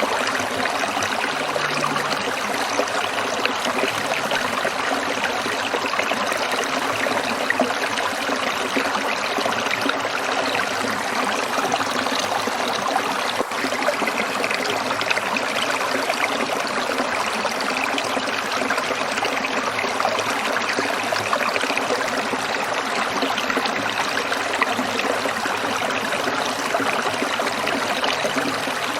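Small stream trickling steadily, a continuous even rush of running water.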